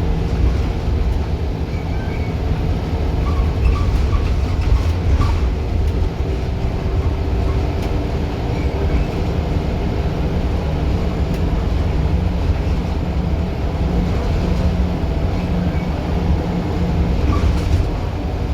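Scania Wright Solar single-deck bus under way, its diesel engine running with a steady low drone and a few short rattles from the bodywork.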